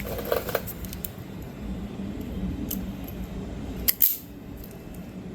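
Small hand tools and parts being handled: a few light clicks, then a sharper, louder metallic click about four seconds in.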